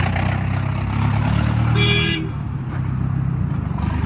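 Mahindra Arjun Novo tractor's diesel engine running steadily, with a short vehicle horn toot about two seconds in.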